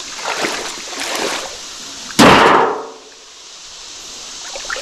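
A metal panel off an AC unit set down hard, one loud bang about two seconds in that dies away within half a second.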